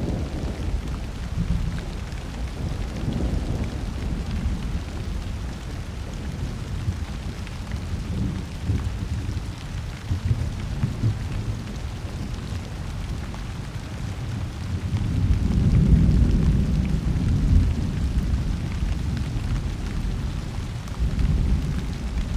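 Thunderstorm: steady rain falling with rolling thunder rumbling in waves, the strongest rumble swelling about fifteen seconds in and fading over the next few seconds.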